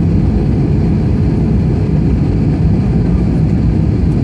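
Steady, loud, low rumble of an airliner's engines and airflow, heard from inside the cabin in flight.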